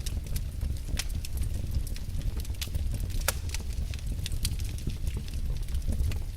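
Wood fire in a fireplace crackling: irregular sharp snaps and a few louder pops over a steady low rumble of the flames.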